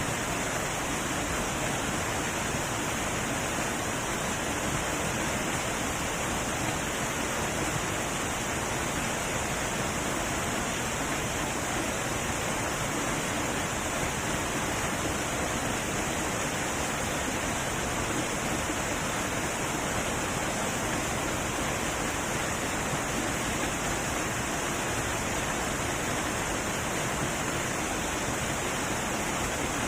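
Heavy waterfall rushing: a steady, even roar of falling water with no breaks.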